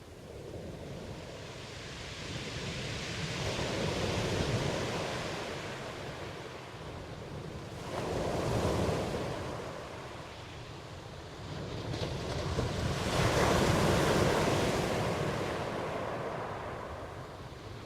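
Ocean waves breaking and washing in, the rush of surf swelling and ebbing three times.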